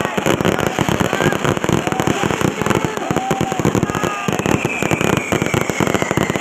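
Many fireworks and firecrackers going off at once in a dense, continuous crackle, with a long falling whistle in the second half.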